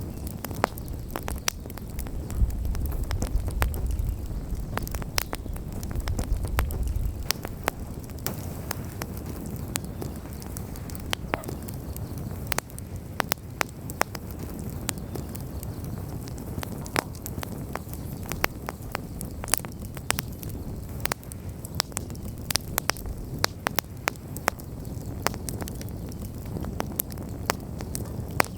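Wood bonfire burning, with frequent sharp crackles and pops from the burning wood over a steady hiss of flame. A low rumble swells for a few seconds near the start.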